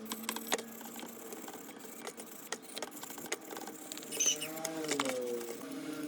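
Light metallic clicks and clinks of small metal parts being handled, coming irregularly, with a pitched tone that glides down about five seconds in.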